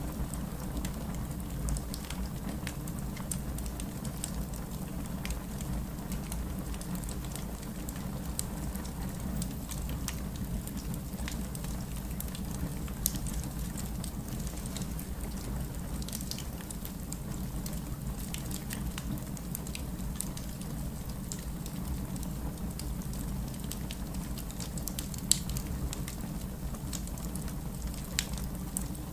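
Wood fire burning in a fireplace: a steady low rumble of flames with scattered sharp crackles and pops, one louder pop about halfway through and another near the end.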